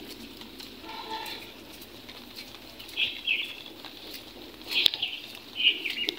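Birds chirping in short calls, several times and loudest in the second half, with a few light clicks.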